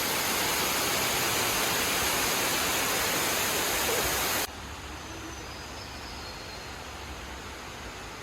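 A steady even hiss that drops suddenly to a quieter hiss about four and a half seconds in.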